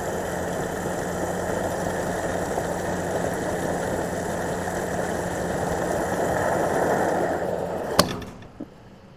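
Gasoline pump filling a car's tank: steady rush of fuel through the nozzle over the pump's hum, swelling near the end as the tank fills. About eight seconds in a sharp click cuts it off, the nozzle's automatic shut-off as the tank is full, followed by a smaller click.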